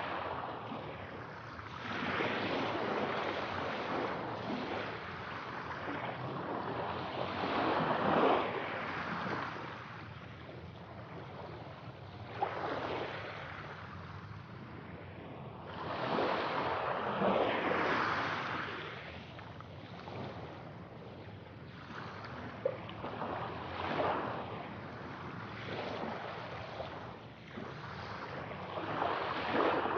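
Sea waves washing onto a shore, swelling and falling away in surges every few seconds, with a few brief sharper splashes.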